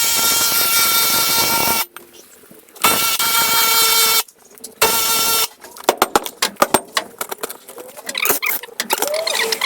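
Impact wrench run in three bursts, driving the bolt of a homemade tractor-tyre bead breaker: a long one, a shorter one about a second later, and a brief one near the middle. After that come scattered clicks and chirping frog or insect calls.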